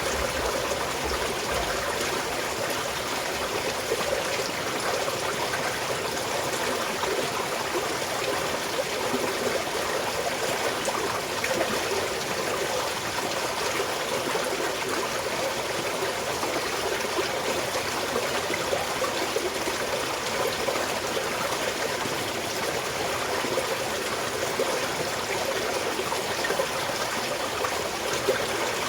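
Small mountain stream flowing and trickling steadily.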